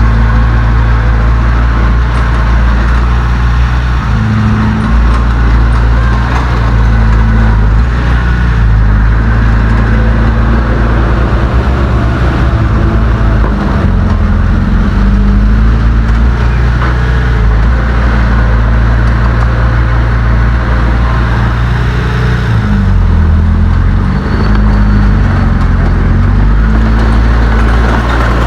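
Heavy diesel engine of earthmoving equipment running loud and close, with its pitch dipping and rising around four seconds in and again a few seconds before the end as it takes load.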